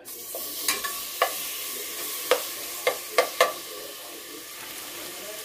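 Food sizzling in a hot pan, the hiss starting abruptly, with a utensil knocking against the pan several times in the first few seconds.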